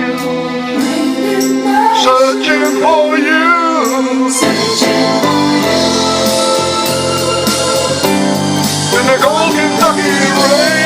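Music: a man singing with instrumental accompaniment. The voice drops out about four seconds in while the accompaniment carries on, and short sung phrases return near the end.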